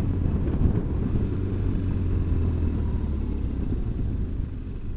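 BMW R1200GS Adventure's flat-twin engine running with a steady low drone as the motorcycle pulls out onto the road, easing off slightly near the end.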